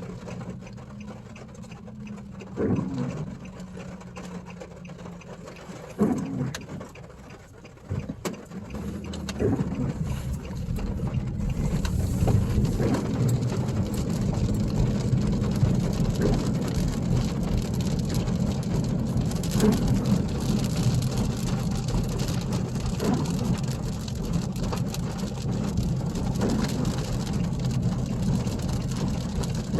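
Car heard from inside: the engine idles with a few knocks for about ten seconds, then the car drives on and a steady rumble of road and rain noise takes over.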